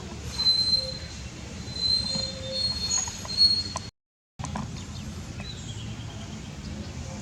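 Monkeys giving high, thin squealing calls, several held squeals in a row, with a brief dead gap about four seconds in and a fainter falling squeal after it.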